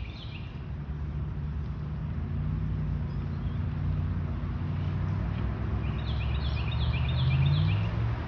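The 2004 Ford Explorer's 4.6-litre V8 runs through a Cherry Bomb muffler, giving a low, steady exhaust drone. The drone swells slightly near the end.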